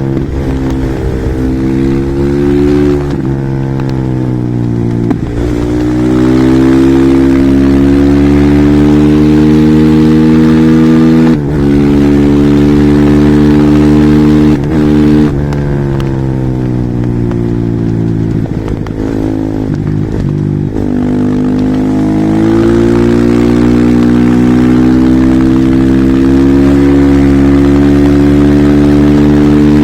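Husqvarna SMR 450 single-cylinder four-stroke supermoto engine ridden hard, its pitch climbing under throttle and dropping again over and over, with brief dips in sound at each gear change and at the roll-offs.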